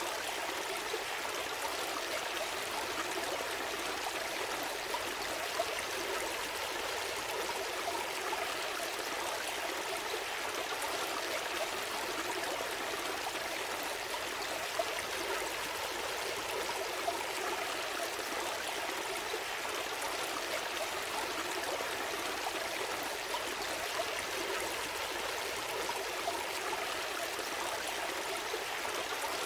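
Gentle stream flowing steadily: an even rush of water with the odd brief splash.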